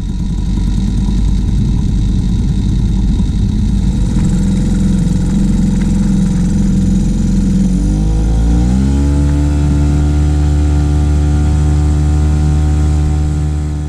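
Small 3.3 horsepower Mariner outboard motor running, uneven at low speed at first. About eight seconds in, it speeds up, its pitch rising and then holding steady at the higher speed.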